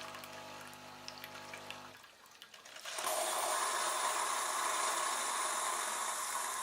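Bosch Tassimo Vivy pod coffee machine brewing: the pump hums steadily as the drink pours, stops about two seconds in, and about a second later a loud steady hiss of steam and air starts, blowing through the pod.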